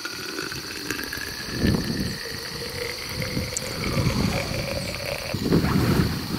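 Night insects trilling steadily in a marsh, one unbroken high-pitched chorus, with irregular low rumbling bumps on the microphone that swell about a second and a half in and again near the end.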